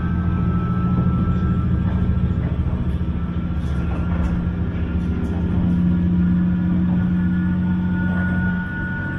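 Train running at a steady speed, heard from inside the passenger car: a continuous rumble with a low hum and a faint steady high whine.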